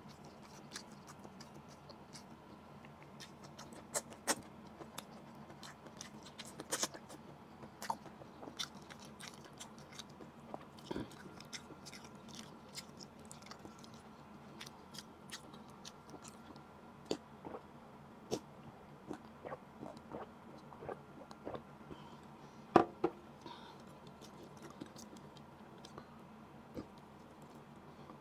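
Close-miked mukbang eating: a person chewing and smacking on grilled rockfish picked off the bone by hand. Scattered sharp clicks and light taps run through it, the loudest about three quarters of the way through.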